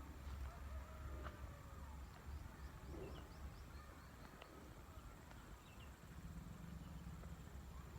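Faint rural outdoor ambience: a steady low rumble with a small bird chirping a quick run of short high notes about two to three seconds in, and a few more near the end.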